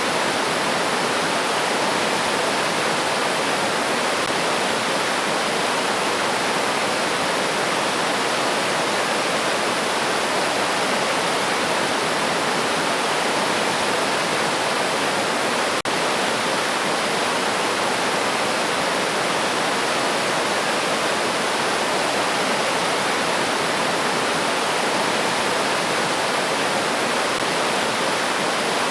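A river flowing: a steady, unbroken rush of running water. There is a faint click about halfway through.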